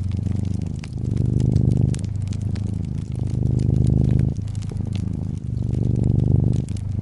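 Domestic cat purring steadily close up, the purr swelling and easing with each breath about every two seconds, over the soft crackle and pop of a wood fire.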